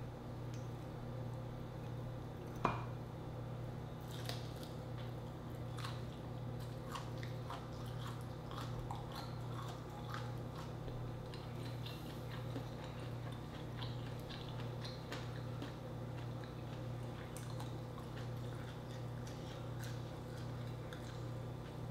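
Close-miked chewing of grilled shrimp and rice: soft, wet mouth clicks scattered throughout, over a steady low hum, with one sharper click about three seconds in.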